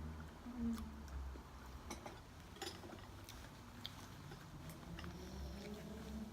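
Quiet eating sounds: scattered small clicks of chopsticks against bowls and chewing, over a low hum.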